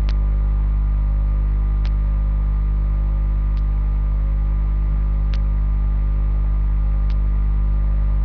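Loud steady electrical mains hum at about 50 Hz with many overtones, picked up by the recording. Faint short clicks sound through it about every second and three-quarters.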